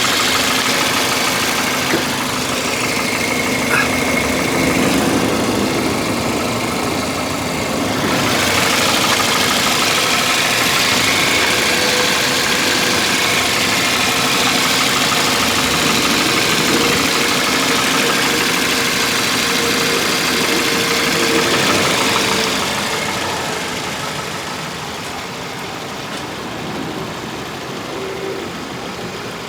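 The Toyota Matrix's 1.8-litre VVT-i four-cylinder engine idling steadily, heard close up in the open engine bay with a loud hiss over it. The sound drops a little after about 23 seconds.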